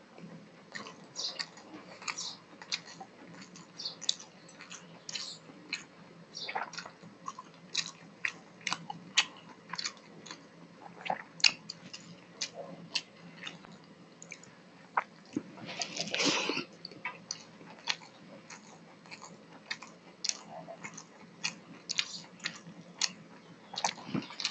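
Close-miked chewing of rice and fish eaten by hand, with many short wet lip smacks and mouth clicks. A longer, louder mouth sound comes about two-thirds of the way through.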